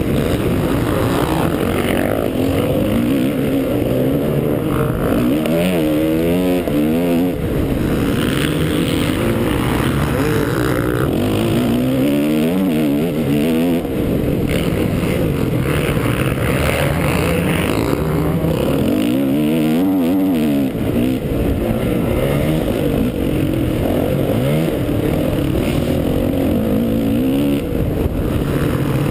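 Honda 450 single-cylinder four-stroke motocross bike engine, heard close up, revving hard and dropping back over and over as the rider opens and shuts the throttle around the track. The pitch climbs and falls several times in quick succession, over a constant rush of noise.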